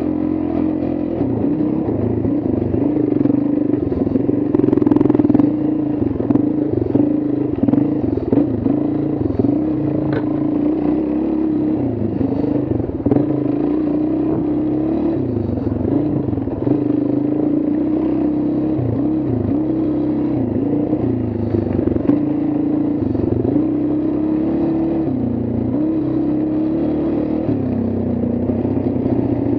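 Motorcycle engine running steadily, its pitch dipping and rising slightly now and then.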